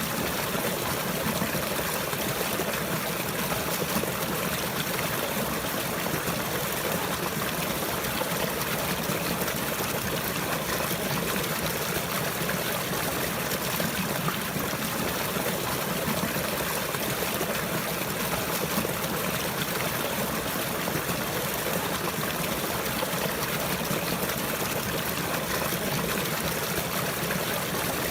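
Flowing water, a stream trickling steadily and evenly without any change.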